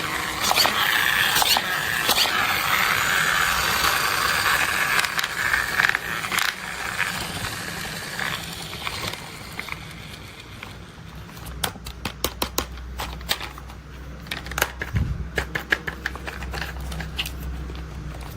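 Toy construction vehicles being handled. For about the first half there is steady scraping and rustling. After that come many sharp, separate taps and clicks.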